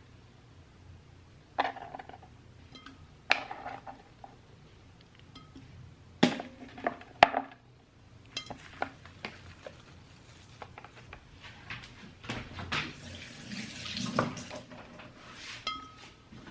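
Kitchen work sounds: dishes and utensils knocking and clinking on a counter, with two sharp knocks about six and seven seconds in, then water running from a tap for a few seconds near the end.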